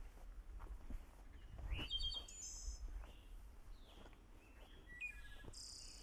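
Wild songbird calls: a rising chirp and a few short high notes about two seconds in, then another short run of notes near the end. Slow footsteps on the trail sound faintly underneath.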